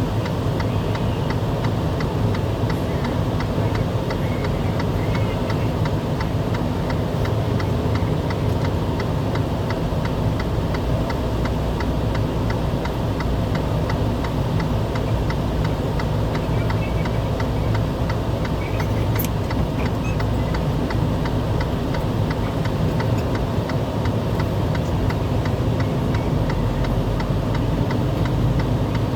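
Vehicle cabin noise: a steady engine and road hum, with a fast, even ticking over it.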